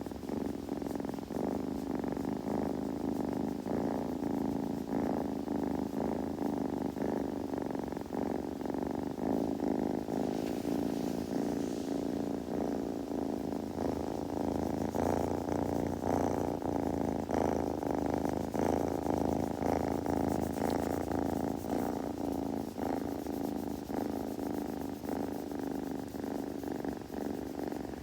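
Kitten purring steadily and continuously, close to the microphone.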